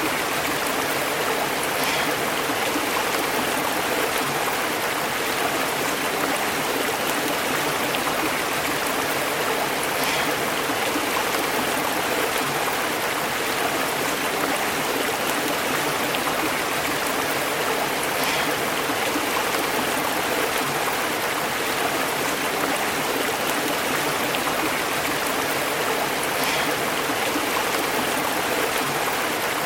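Stream burbling and bubbling over rocks: a steady, even rush of running water, with a faint brighter splash about every eight seconds.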